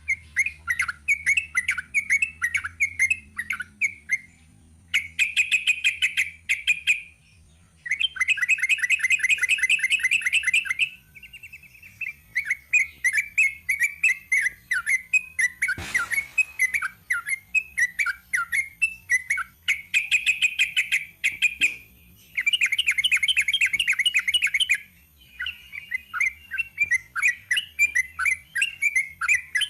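Sooty-headed bulbul (trucuk) singing: chattering phrases broken by several long runs of very fast, rolling repeated notes. A single sharp click about halfway through.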